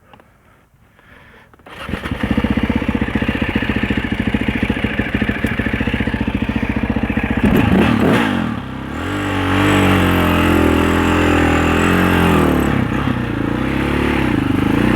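A Husaberg 650 single-cylinder four-stroke dirt bike engine starts up abruptly about two seconds in and runs with a fast, even beat. About eight seconds in it revs up, then its pitch rises and falls as the bike pulls away.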